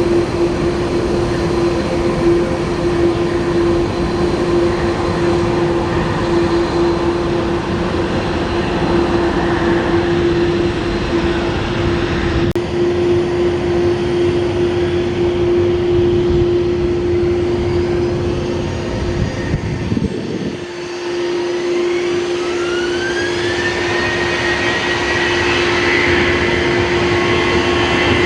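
Jet airliner engines running: a rushing noise with a steady hum. About three-quarters of the way through, a rising whine comes in.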